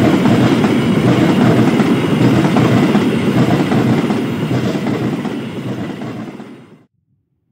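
Passenger train coaches passing close by, a loud steady rumble and clatter of steel wheels on the rails. It fades from about five seconds in and then cuts off suddenly.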